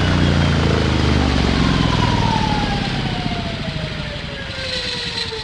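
A 40 kW brushless DC electric motor driving a three-blade carbon-fibre propeller, spinning down. The propeller's low drone fades out after about two and a half seconds, while a whine falls steadily in pitch.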